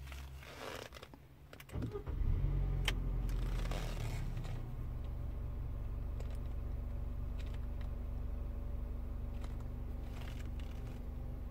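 A car engine being started from inside the cabin: a couple of clicks, then about two seconds in it cranks and catches, runs up briefly and settles into a steady idle.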